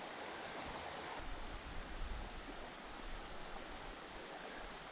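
Insects chirping: a steady, high, unbroken trill that grows louder about a second in.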